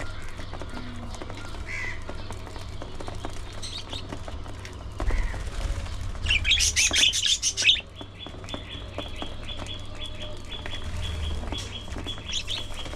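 A colony of budgerigars chirping and chattering. A loud burst of rapid chatter comes about six seconds in, followed by a fast, even run of short high chirps.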